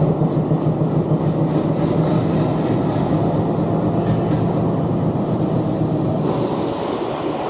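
Passenger train running along the track: a steady rumble of wheels and coaches with a low hum, easing slightly near the end.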